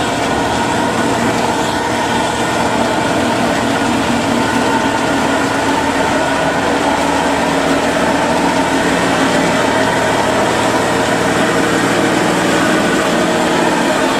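Heavy truck engine running with a steady drone.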